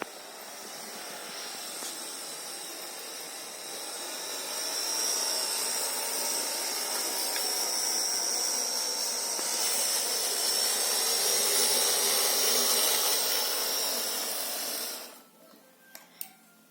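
H0-scale model TE3 diesel locomotive running: a small electric motor whine with gear and wheel noise that builds up over the first few seconds, holds steady, then cuts off suddenly near the end, followed by a few faint clicks.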